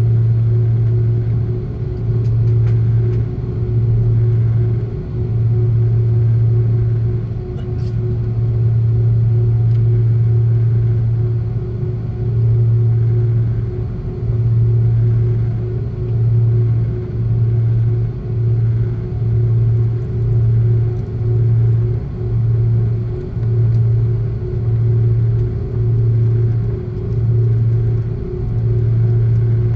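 Airbus A330's twin engines droning, heard from inside the passenger cabin: a loud, steady low hum with a fainter higher tone above it. The hum throbs in a slow beat, about once a second over the second half.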